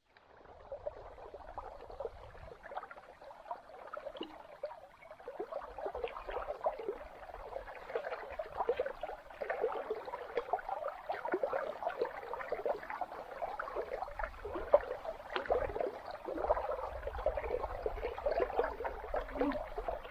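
River water gurgling and lapping steadily, with a low rumble coming and going underneath.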